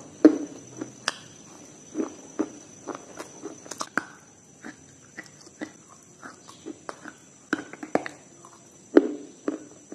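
Close-miked bites and chewing of a hard, chalky white block: irregular sharp crunches and mouth clicks, with the loudest crunch about nine seconds in.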